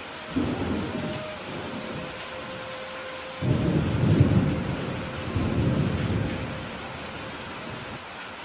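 Steady rain falling, with a short roll of thunder about half a second in and a louder, longer rumble of thunder starting about three and a half seconds in and dying away a few seconds later.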